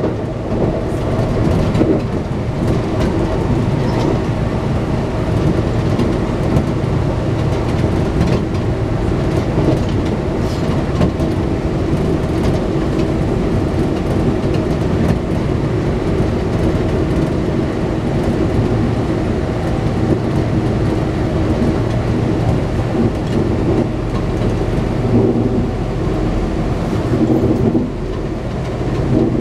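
Running noise of a Kintetsu electric train heard from inside the car at speed: a steady rumble of wheels on rail under a steady hum, with scattered light clicks. The noise dips briefly near the end, then rises again.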